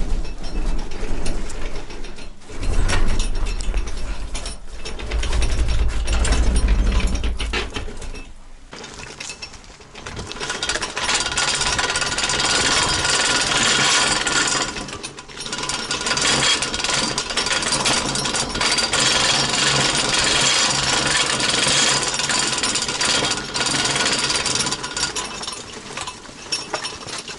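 Power-tool metalwork on the homemade snowmobile's frame. For the first several seconds there is irregular knocking with a heavy low rumble; then, about ten seconds in, a loud steady grinding noise starts and runs with brief breaks.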